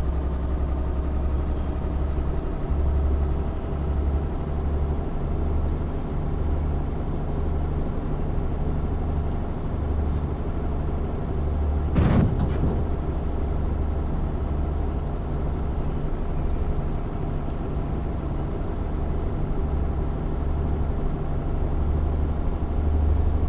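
Tanker truck's engine running steadily while driving, with a short sharp hiss or knock about halfway through.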